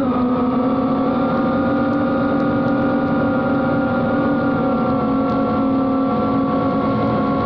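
FPV quadcopter's four motors spinning 76 mm Gemfan propellers, giving a loud, steady buzzing whine at a held throttle, picked up by a camera mounted on the drone itself.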